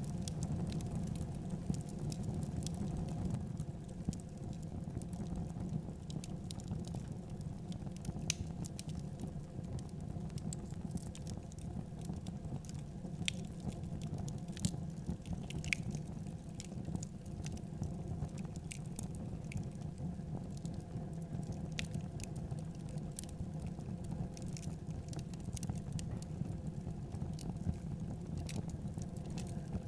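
Tandoori chicken pieces frying in melting butter in a shallow pan: scattered crackles and pops of sizzling fat over a steady low rumble.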